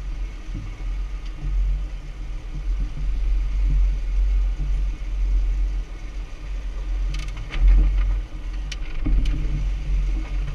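Jeep Wrangler Rubicon's engine running at low speed on a dirt trail, with a steady low rumble. Several sharp knocks and rattles come in the second half.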